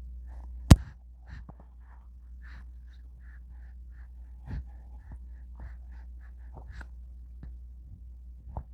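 An infant's small breaths, gasps and soft vocal noises, short and scattered, over a steady low hum. A single sharp click comes a little under a second in.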